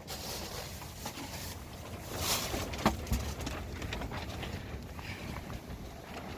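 Wind buffeting the microphone with a steady low rumble, over rustling, and a couple of short sharp knocks or scrapes about two and three seconds in.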